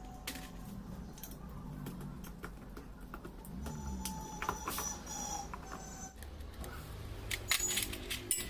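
Scattered small metallic clicks and taps of fuel-injection pump parts being handled and fitted, over a low steady hum, with a quick run of sharper clicks near the end.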